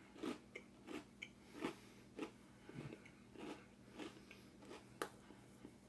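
A person chewing a handful of dry Holiday Sprinkles Cookie Crisp cereal: faint, regular crunches, about two a second.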